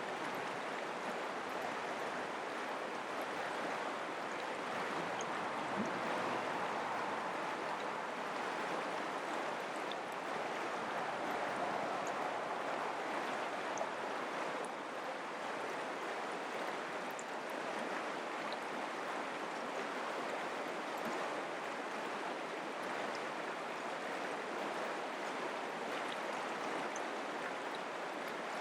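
Mountain creek water running steadily over rocks, an even rushing with no breaks.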